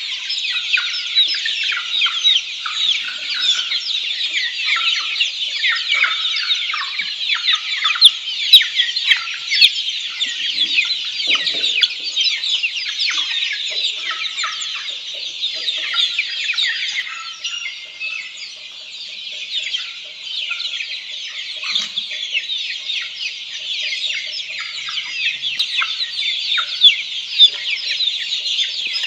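A crowd of black Australorp chicks peeping continuously, many short high chirps overlapping. The chorus eases briefly about two-thirds of the way through.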